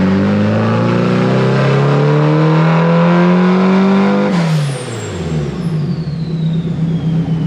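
Turbocharged SR20DET inline-four revving up steadily under load through a dyno pull for about four seconds. Then it lets off with a sudden blow-off valve hiss, and the engine note and a high turbo whistle fall away as it drops back to a steady idle.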